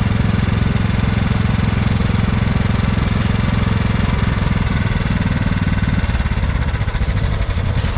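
An engine running steadily at idle, its note shifting slightly about halfway through.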